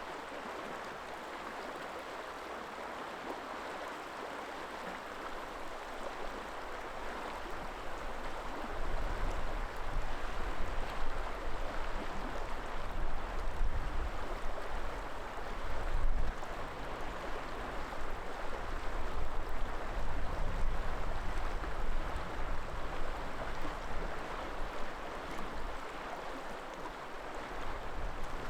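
River water flowing steadily, with gusts of wind buffeting the microphone from about a third of the way in until near the end, adding an uneven low rumble.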